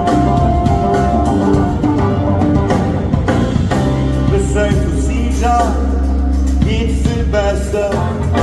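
Rock band playing live, with bass, drums and guitar in an instrumental stretch between sung lines, and a gliding lead melody in the second half.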